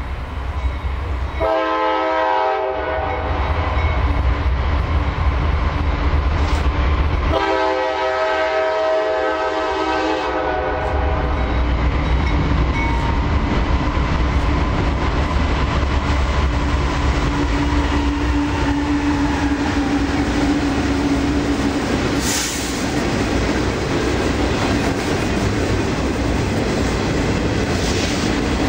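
Diesel freight locomotive's multi-chime air horn sounding twice, a short blast about a second and a half in and a longer one of about three seconds a few seconds later, over the steady rumble of the freight train running past on the rails.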